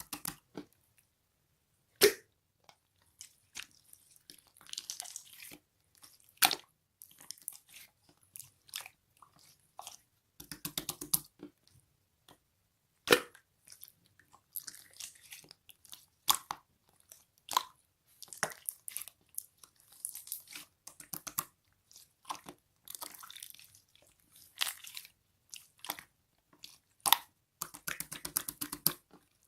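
Clear glitter slime being squished and worked by hand, making irregular sharp pops and clicks with short stretches of crackling.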